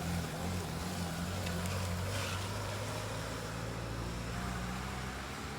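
Pickup truck's freshly swapped engine idling steadily, with a brief hiss about two seconds in.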